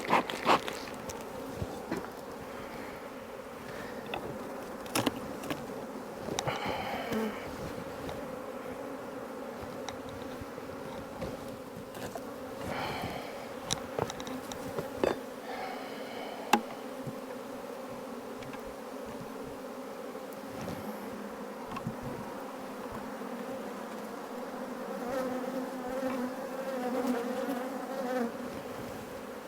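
Honeybee colony buzzing in a steady hum around an opened hive, with occasional sharp clicks.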